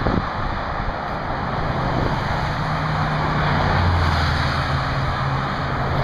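Fire engine on the move: steady road and wind rush, with the engine's low, even drone coming up about two and a half seconds in.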